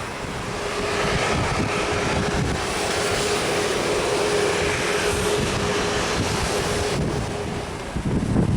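Jet airliner engines running: a broad rushing sound with a steady hum, growing louder about a second in.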